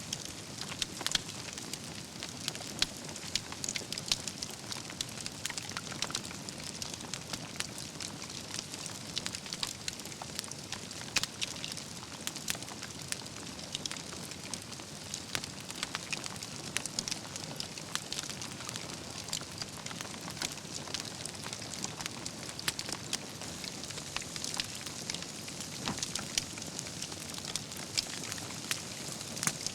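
Wood campfire burning, with dense crackling and frequent sharp pops over a steady hiss.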